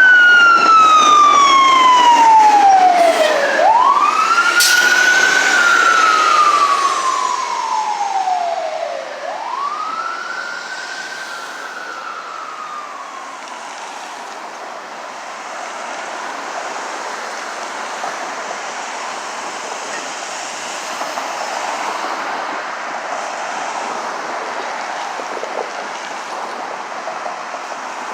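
Fire engine siren on a slow wail, its pitch rising and falling about every five and a half seconds, three times, then fading out about twelve seconds in. Steady traffic noise follows, with a sharp click about five seconds in.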